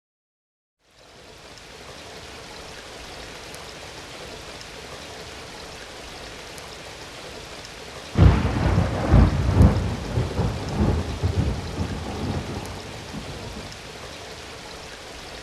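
Rain and thunder sound effect: steady rain hiss fades in after a second of silence, then about eight seconds in a loud thunderclap rumbles and rolls away.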